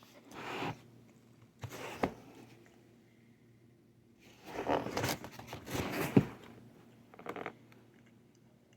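Eating and food-handling noises close to the microphone: several short bursts of scraping and rustling, the longest about two seconds long in the middle.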